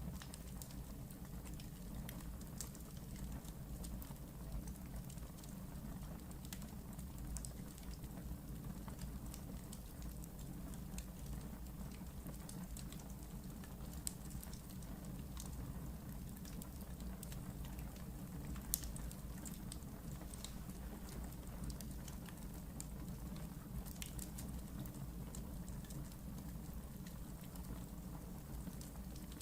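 Wood fire burning in a fireplace: a steady low rumble of flames with scattered crackles and pops, two sharper pops about a third and two thirds of the way through.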